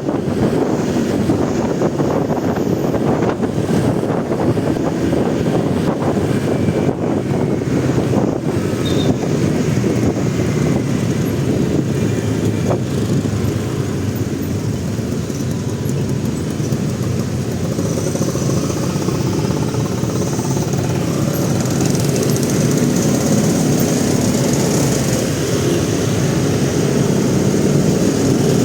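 Motorcycle engine running steadily while riding in city traffic, with the noise of surrounding vehicles.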